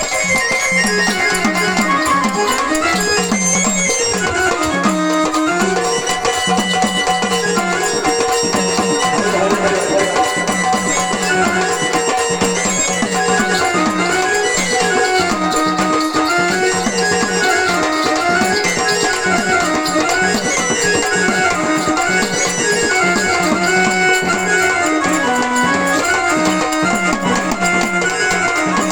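Instrumental interlude of Marathi folk music: a melody instrument plays a winding tune over a steady drone, with hand-drum rhythm underneath.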